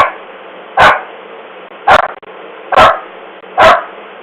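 A dog barking loudly, five sharp barks about a second apart, heard through a video doorbell's small, thin-sounding microphone.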